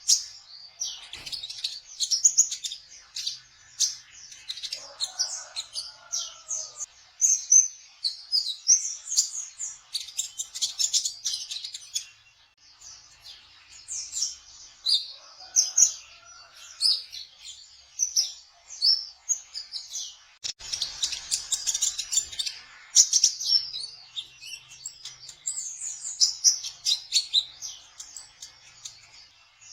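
Kolibri ninja trotol, a sunbird, singing a rapid, continuous run of high chirps and twittering trills. A fainter, lower call joins in briefly twice.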